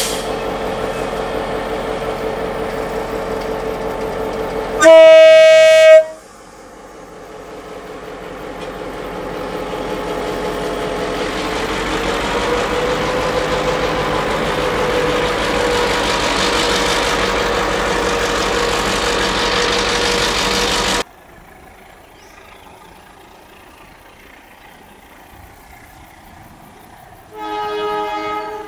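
Indonesian railway scene with diesel locomotives. A steady engine and train rumble is broken by one loud locomotive horn blast about five seconds in. The train noise then builds over several seconds and cuts off suddenly, and a fainter locomotive horn sounds briefly near the end.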